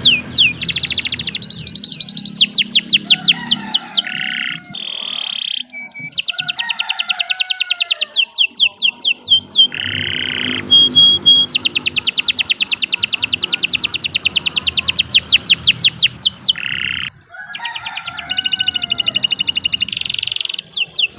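Domestic canary singing a long, unbroken song: fast rolling trills of rapidly repeated high notes, switching to a new trill type every second or few, with a couple of brief breaks.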